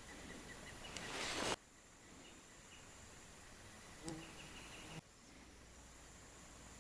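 Quiet outdoor ambience with short, high bird chirps. A rising rush of noise cuts off abruptly about a second and a half in, there is a small click at about four seconds, and the background changes suddenly again at about five seconds.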